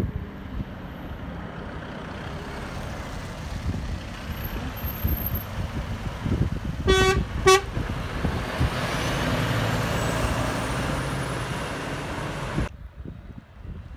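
Road traffic rumbling past, and a passing truck sounds its horn in two short toots about halfway through. Then a heavy vehicle passes close and loud, and the sound cuts off suddenly near the end.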